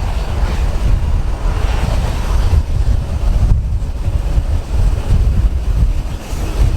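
Strong wind buffeting the microphone: a heavy, low rushing noise that rises and falls in gusts.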